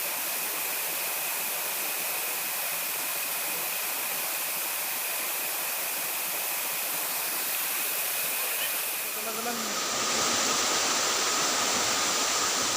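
Steady rush of flowing stream water with a constant high-pitched tone over it. About ten seconds in, the sound changes abruptly to a slightly louder rush carrying a different steady tone.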